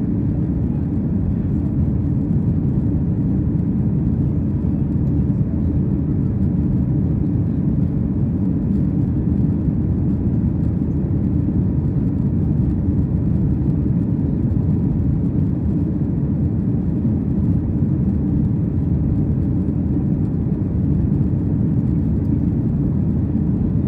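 Steady low rumble of a Boeing 737's engines and airflow heard from inside the passenger cabin.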